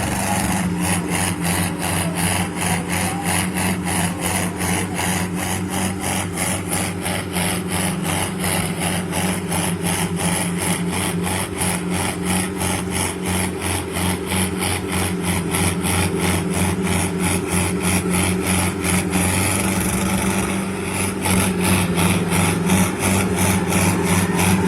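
Sonalika tractor diesel engines running hard under load, with an even pulsing beat of about three to four pulses a second. The sound swells somewhat louder a few seconds before the end.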